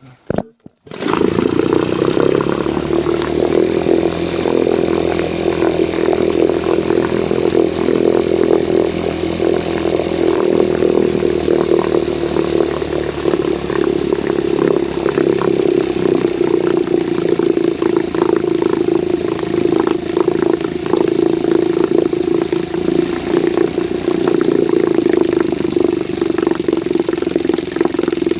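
Elto Evinrude 1.5 hp two-stroke outboard motor started by a pull of the rope wound on its flywheel: it catches about a second in and then runs steadily and evenly.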